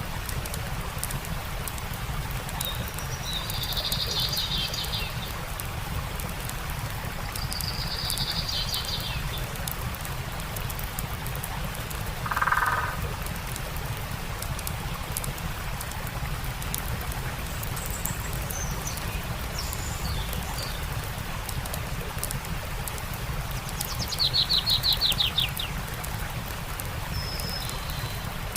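Steady rush of a flowing stream with a campfire crackling in small sharp pops, and songbirds calling now and then over it, ending in a fast trill near the end.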